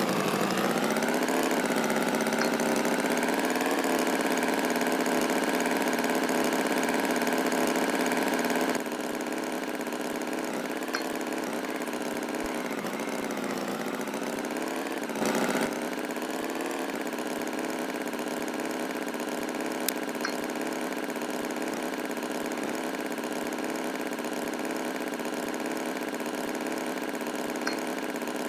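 Engine running steadily, a droning hum whose pitch wavers at first, quieter from about nine seconds in, with a brief swell around fifteen seconds.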